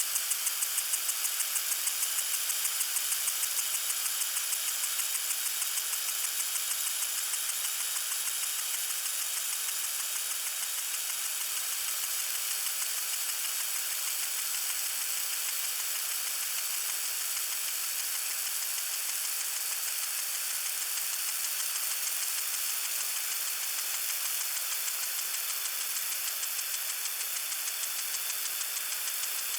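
Lawn sprinkler spraying water: a steady high hiss with a fast, even ticking rattle running through it, strongest in the first few seconds.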